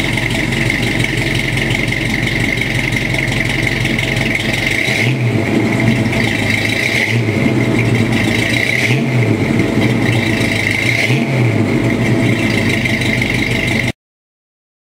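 Ford V8 of a 1966 Mustang GT-350 recreation idling with a deep rumble, blipped four times, about two seconds apart, in the second half. The sound cuts off abruptly near the end.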